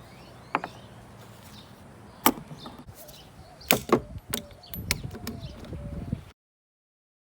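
Metal tools clinking and knocking against a removed power steering rack: a handful of sharp separate strikes, then about a second and a half of low rumbling clatter before the sound cuts off abruptly.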